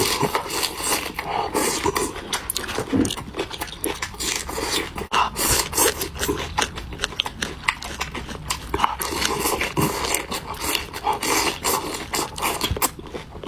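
Loud, close-up chewing and crunching of food with wet mouth smacking: a dense, irregular run of crunches and clicks.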